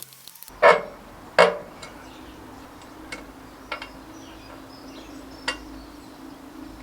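Metal clinking and knocking while a tractor wheel is being fitted. Two sharp clinks come a little under a second apart near the start, then a few lighter clicks over a faint steady hum.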